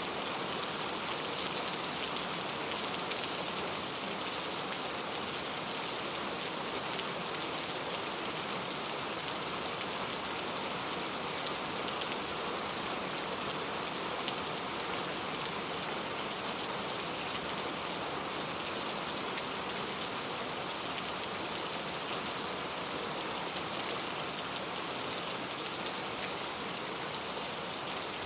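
Steady rainfall: an even hiss of rain with fine scattered drop patter, unchanging in level.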